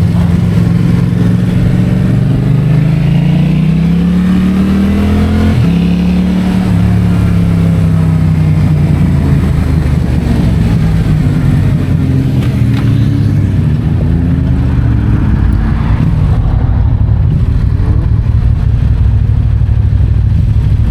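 Yamaha MT-07's parallel-twin engine through an Akrapovic titanium exhaust, pulling up through the revs under acceleration. The pitch drops suddenly at a gear change about five and a half seconds in, then falls away as the throttle eases and climbs again in the second half.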